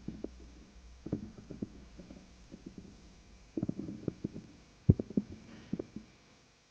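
Irregular clusters of soft knocks and thumps over a faint low hum, the sharpest knock about five seconds in.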